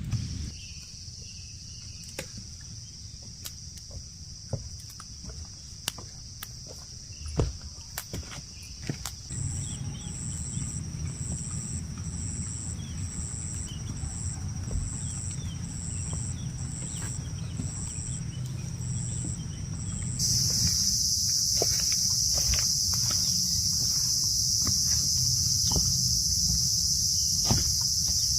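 A steady high-pitched insect chorus, with a second insect chirping in regular pulses a little more than once a second through the middle. About two-thirds of the way through the chorus turns much louder. A low steady rumble and scattered clicks sit underneath, with a short thump about a quarter of the way in.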